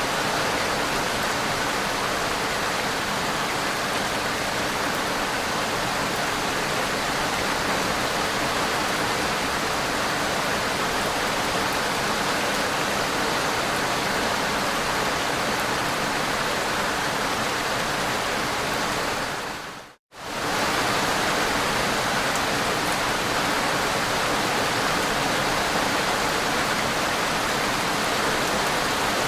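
Steady rainfall, an even hiss with no single drops standing out. About twenty seconds in it fades out to silence for a moment and comes straight back in.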